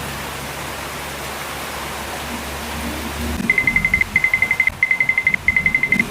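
Steady hiss of rain, then about three and a half seconds in an electronic alarm starts beeping: a high, fixed-pitch beep in quick bursts of rapid pulses, one burst about every two-thirds of a second.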